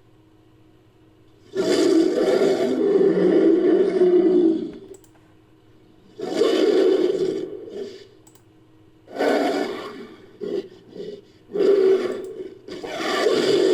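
Made-up monster roars for a creature sound-effects set, mixed from existing creature sounds: a long growling roar, a shorter roar, a run of short grunts and a roar that builds again near the end.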